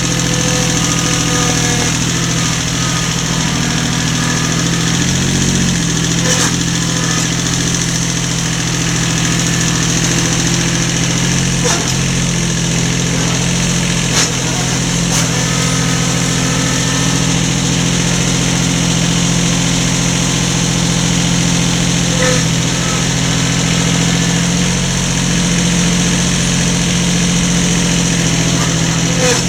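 An engine running steadily at idle, with a few light knocks and clicks over it.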